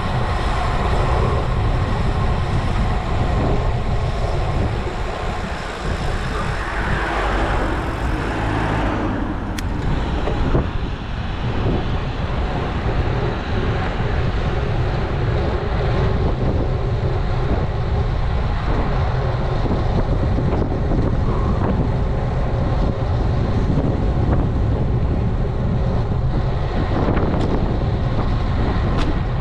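Steady wind buffeting on a bike-mounted action camera's microphone while riding a road bike, with rushing tyre and road noise. A louder swell rises about seven seconds in and fades a couple of seconds later.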